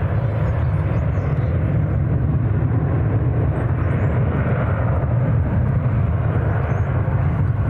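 Jet airliner engines, a loud, steady deep rumble with a broad rushing noise above it, as a plane passes close by.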